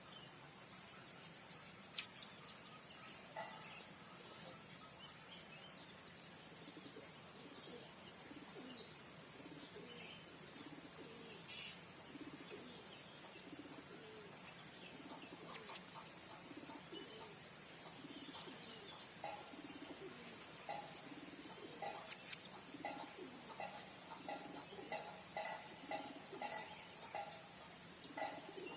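Steady, high-pitched chorus of insects, with faint short bird calls repeating more often in the second half and a few sharp clicks, the loudest about two seconds in.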